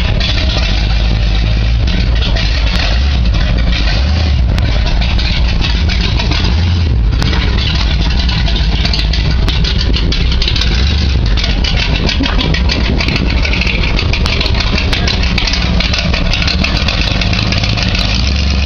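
Oldsmobile Cutlass with a 455 V8 idling loudly, with a few low swells in the engine note.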